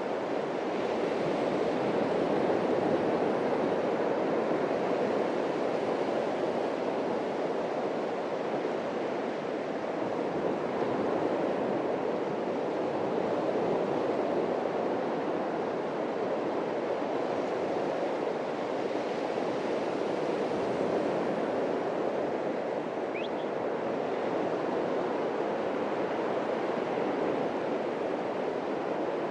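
Atlantic Ocean surf washing onto a beach: a steady rushing wash that swells and eases gently every few seconds.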